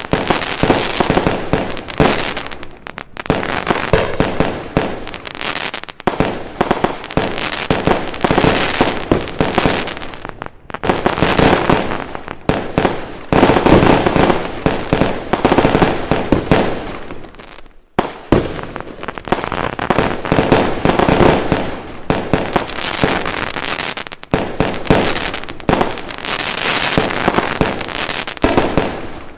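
A continuous barrage of fireworks: rapid bangs and crackling packed densely together, with short lulls every few seconds.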